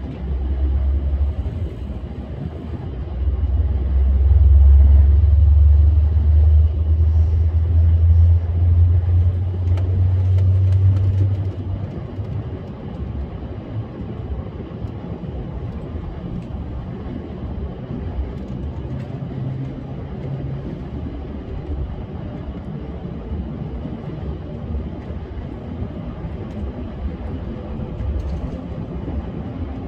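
Low rumble of a KTX high-speed train, loudest for about nine seconds starting about three seconds in, then easing to a steadier, quieter rumble.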